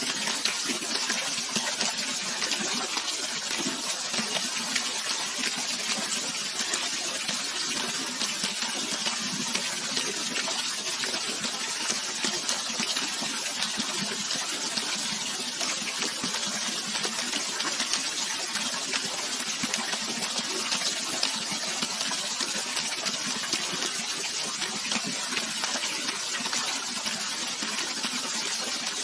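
Running water splashing steadily, a continuous rush flecked with fine droplet splashes.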